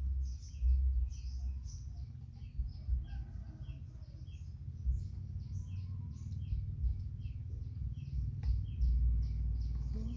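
A bird chirping over and over, about two short high chirps a second, over a low, uneven rumble.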